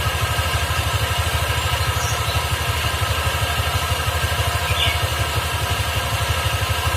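An engine idling steadily with a pulsing low rumble; a canary gives two brief, faint chirps over it, about two seconds and nearly five seconds in.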